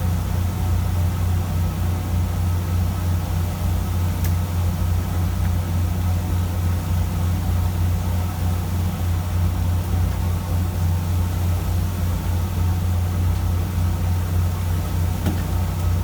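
A fishing boat's engine running steadily, a constant deep hum with water and wind noise over it.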